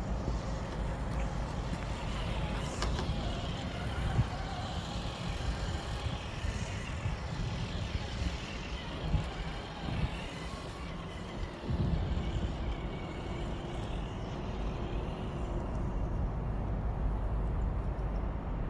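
Steady low rumble of highway traffic, with a few sharp clicks.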